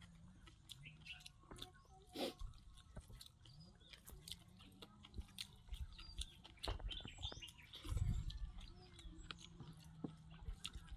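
A person chewing and biting food with many small wet clicks and smacks while eating a rice-and-curry meal, with small birds chirping in the background.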